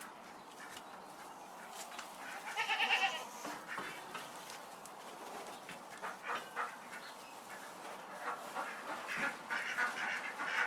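Animal calls: a loud call about two and a half to three seconds in, followed by several shorter calls later on.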